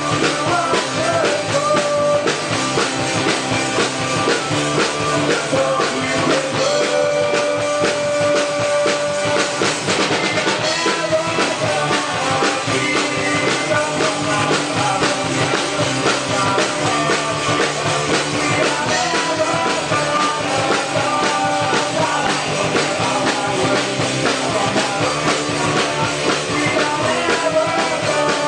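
Celtic punk rock band playing live at full volume: drum kit, electric guitars and a melody line with long held notes.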